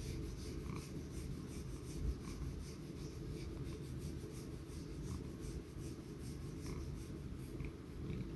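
Cat clawing a corrugated-cardboard scratcher: a run of quick rasping strokes, several a second.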